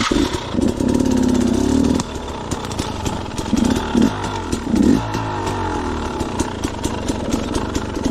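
Two-stroke KTM dirt bike engine running on the trail, blipped up in short revs a few times, over a busy patter of clicks and knocks.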